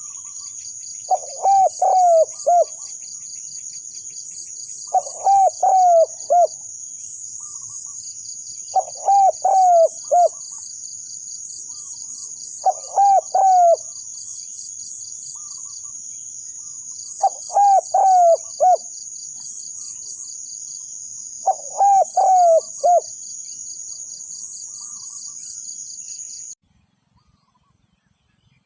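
Spotted dove cooing: six phrases, each a short lead note followed by a run of three or four low coos, repeated about every four seconds. A steady high-pitched insect trill runs behind it and cuts off suddenly near the end.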